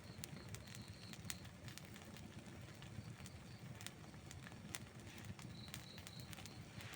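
Outdoor wood campfire burning: a soft low rumble of the flames with scattered sharp crackles and pops of the burning wood. Faint short high-pitched chirps come twice, about a second in and near the end.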